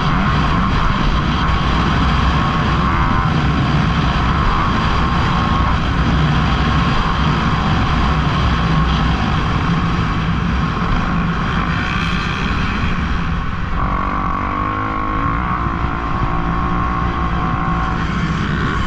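Dirt bike engines running during a motocross race, loud and continuous, with the engine pitch shifting about two thirds of the way through.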